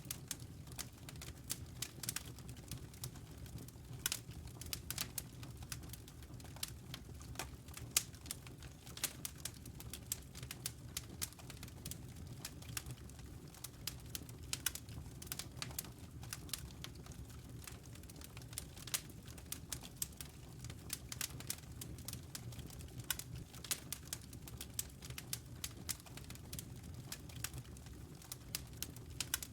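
Wood fire crackling in a fireplace: many irregular sharp pops and snaps over a low, steady rumble.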